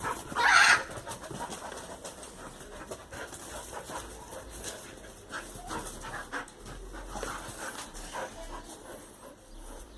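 Two dogs playing together. One dog gives a loud short cry about half a second in, and scattered short scuffling sounds follow.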